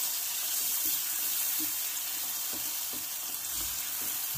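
Ground onion-garlic masala paste sizzling steadily in hot oil in a nonstick kadhai, stirred and spread with a spatula in short strokes: the masala being fried (bhuna).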